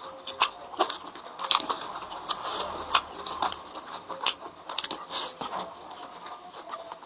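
Close-up eating sounds of chicken being chewed: irregular mouth clicks and smacks, a few each second.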